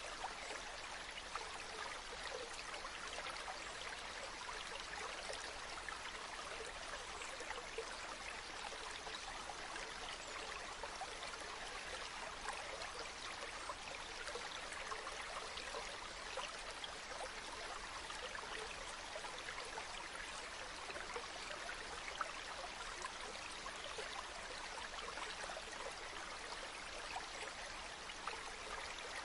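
A stream flowing steadily: an even wash of running water flecked with small splashes and trickles.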